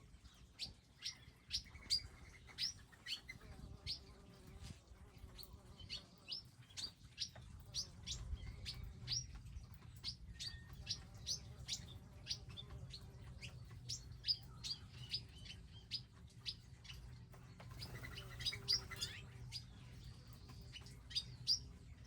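Small wild birds chirping over and over at feeders: short, high, down-slurred chirps, a couple each second, with a low steady hum underneath from about eight seconds in.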